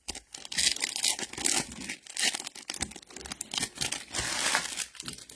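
Trading card pack wrapper being torn open and crinkled by hand, a run of irregular crackling and tearing noises.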